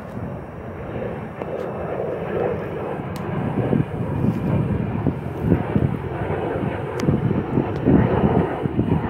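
Departing jet airliner's engines, a rough, crackling rumble that grows louder.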